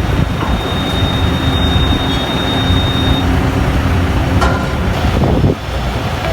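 Steady low rumble and noise of a running vehicle, with a thin high whine over it that stops about three seconds in. The sound changes abruptly about four seconds in and dips briefly near the end.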